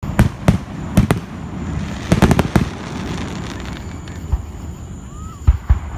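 Fireworks going off: a run of sharp bangs, several in quick succession in the first three seconds, then two more near the end, over a steady background of crackle and rumble.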